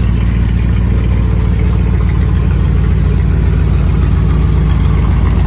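Honda Gold Wing GL1800 trike's flat-six engine idling steadily.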